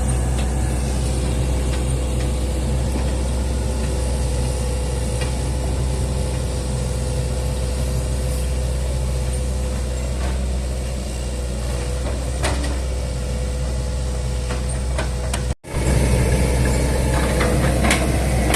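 Excavator's diesel engine running steadily with a deep drone, with a few faint clicks and knocks. About three-quarters through, the sound cuts out for an instant and then resumes.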